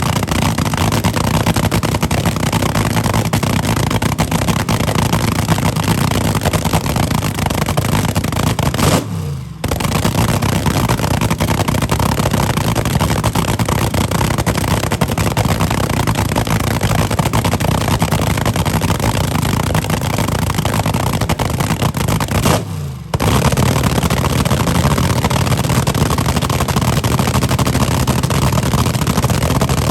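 Loud car engine held hard at high revs, with crackling and rasping, broken twice by a short drop in which the revs fall away, about nine seconds in and again about twenty-three seconds in.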